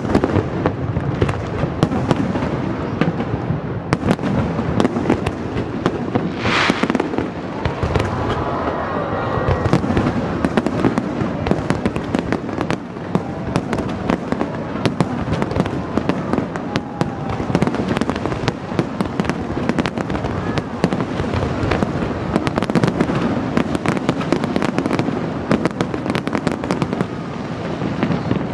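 Large fireworks display: many aerial shells bursting at once in a dense, continuous barrage of bangs and crackles.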